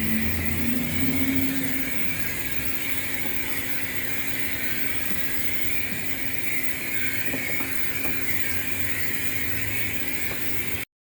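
Self-serve car wash spray wand hissing steadily as it sprays tire and engine cleaner, over a steady low hum. The sound cuts off abruptly near the end.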